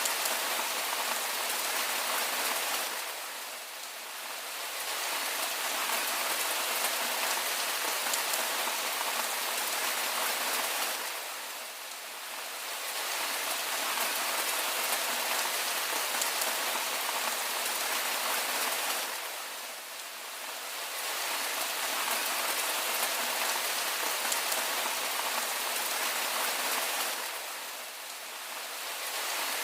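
Steady rain falling, a dense even hiss. It dips in level for a second or two about every eight seconds.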